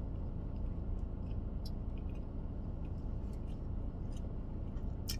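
A person chewing a bite of brisket sandwich that is very chewy, with a few small mouth clicks, the sharpest near the end. Under it runs a steady low hum in the car cabin.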